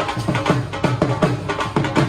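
Dhol drumming in a fast, steady rhythm of about five strokes a second, the low strokes dropping in pitch just after each hit.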